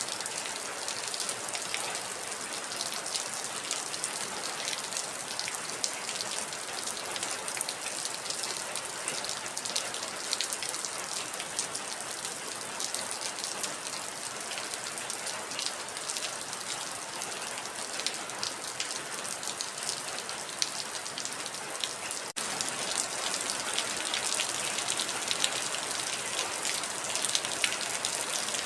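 Heavy rain falling steadily: a dense hiss thick with individual drop impacts. There is a momentary break about 22 seconds in, after which the rain is slightly louder.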